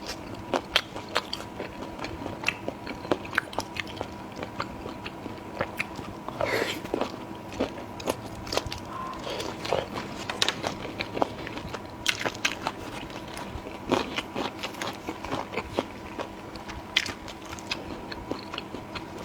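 Close-miked mouth sounds of a person biting and chewing food: irregular wet smacks and sharp clicks, over a faint steady hum.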